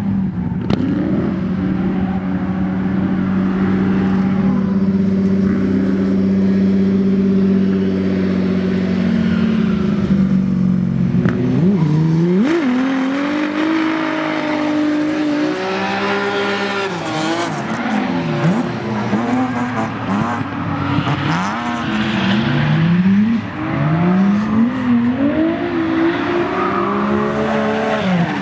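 Nissan VR38DETT twin-turbo V6 in a drifting 240SX, held at steady high revs for about ten seconds. It then revs up and down in quick repeated sweeps, with the rear tyres squealing.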